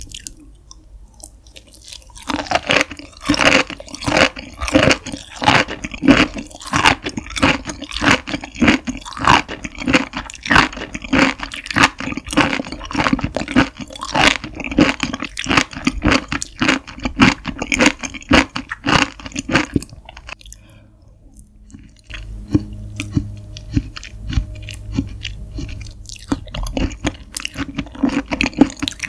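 Close-miked chewing of raw beef tripe: rapid clicking chews, about three a second. The chewing stops briefly about twenty seconds in, then resumes more softly over a low hum.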